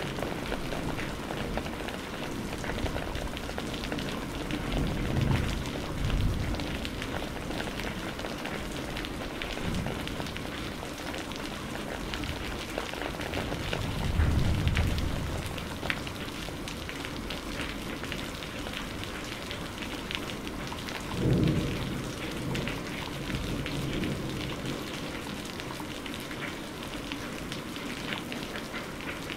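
Steady heavy rain pattering, with low thunder rumbling up and fading three times; the loudest roll comes about halfway through.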